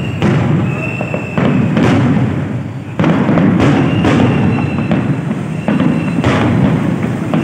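Aerial fireworks going off: sharp bangs every second or so over a continuous rumble and crackle of bursting shells.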